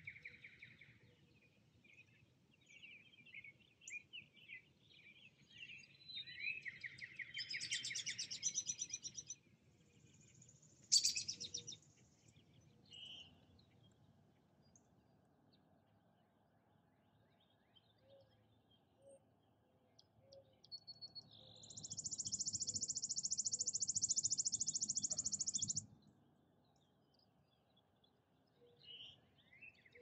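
Wild songbirds calling and singing: scattered chirps in the first several seconds, a fast trill about eight seconds in, a single sharp call around eleven seconds, then a loud rapid high trill lasting about four seconds in the second half. A faint low rumble runs underneath.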